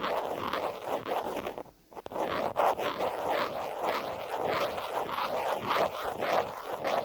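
Close-up scratching on a phone case: quick, repeated rasping strokes, with one brief pause about two seconds in.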